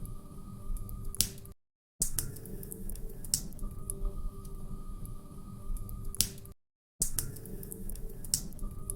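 Wood fire in a fireplace crackling, with irregular sharp pops and snaps over a low rumble. The recording is a short loop that drops out to silence for a moment twice.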